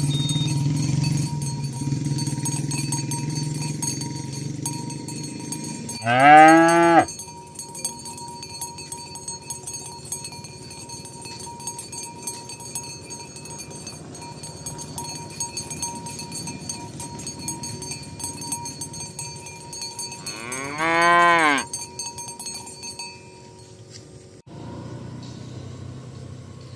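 Cow mooing twice, some fifteen seconds apart, each a single call of about a second that rises and falls in pitch, over a faint steady background.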